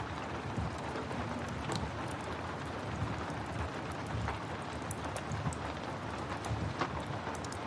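Steady rain with a low rumble, and scattered sharp crackles and pops from a wood fire.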